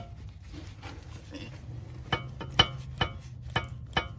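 Worn outer tie rod end on a 2007 Lincoln MKX (Ford Edge) being rocked by hand, knocking with its play: a run of sharp metallic clunks, about two to three a second, starting about two seconds in. The owner takes this play for the source of the clunk he hears from the suspension over bumps and in turns.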